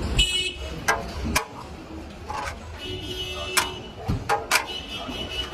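Metal utensils clacking and clinking against pots and plates, a handful of sharp knocks, some with a short metallic ring, over steady shop background noise.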